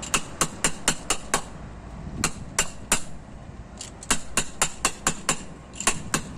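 A hammer striking metal in quick runs of ringing blows, about five a second, with short pauses between the runs.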